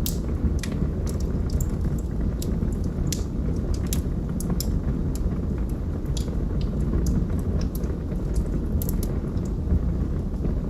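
Log fire burning, with irregular sharp crackles and pops from the wood over a steady low rumble of the flames.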